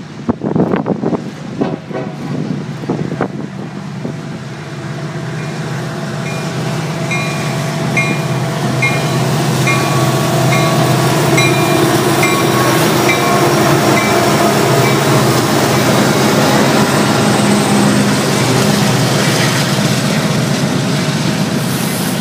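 Freight train led by a Union Pacific SD70ACe diesel locomotive coming by, its rumble building to a loud steady run with a low drone. A high ding repeats about once a second for several seconds midway.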